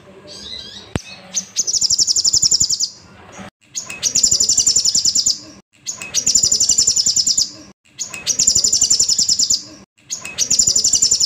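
Sogon (sogok ontong) sunbird singing: five rapid, high trilled phrases, each over a second long, repeated about every two seconds with short pauses between.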